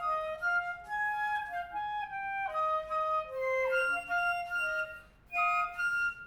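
Flute and clarinet playing quick runs of notes together in a rehearsal, with a brief break in the playing about five seconds in.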